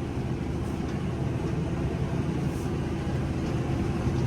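Tractor engine running steadily under load while pulling a large square baler, heard from inside the cab as a constant low drone.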